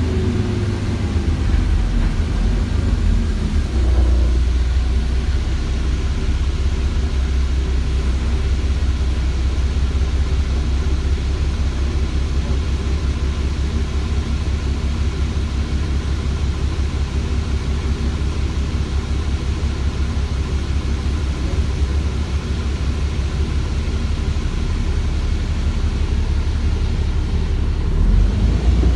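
Cummins ISBe 6.7-litre diesel engine of an ADL Enviro400 bus running with a steady low rumble. A falling whine dies away in the first second, and the sound grows a little louder near the end.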